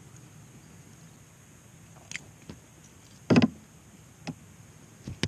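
Knocks against a small boat's hull while a fish is unhooked and handled: a few light clicks and one louder thump about three and a half seconds in.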